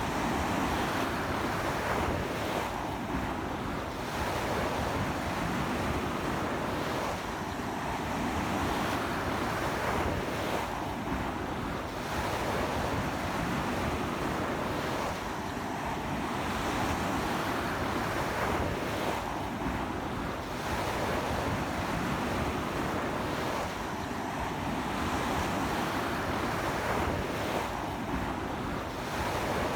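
Ocean waves breaking and washing up a beach in a strong sea wind, a continuous surf that swells and eases every few seconds, with wind buffeting the microphone.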